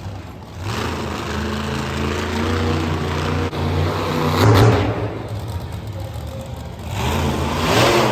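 Engine running and revving, with loud surges about four and a half seconds in and again near the end.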